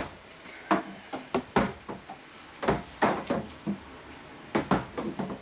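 About a dozen irregular knocks and clunks from a hose being handled and worked into place against wooden boards in a cramped space.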